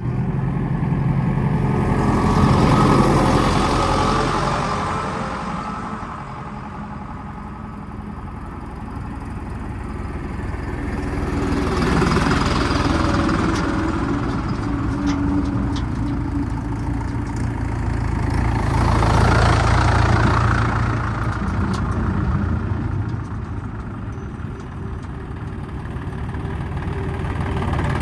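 Diesel engine of a JCB 3DX backhoe loader working, its revs swelling and falling back three times, about eight seconds apart, as it goes through repeated loading cycles.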